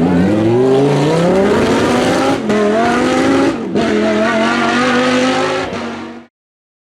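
Lamborghini Huracán Super Trofeo's 5.2-litre V10 accelerating hard, its pitch climbing through the revs. It drops sharply at two quick upshifts, about two and a half and three and a half seconds in, then runs on high until the sound cuts off suddenly about six seconds in.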